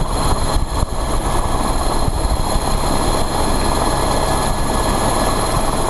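Police helicopter running steadily: a dense, even rush of rotor and engine noise with a heavy low rumble and faint steady high tones above it.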